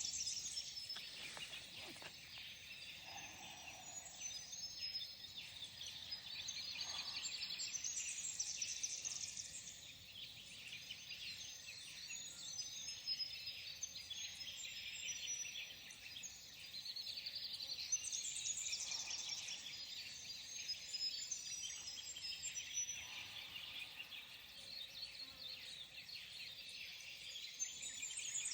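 Several wild birds singing and chirping over one another in a steady chorus of high, rapid notes, with a trilling song that rises in pitch about every ten seconds and a few fainter, lower calls in between.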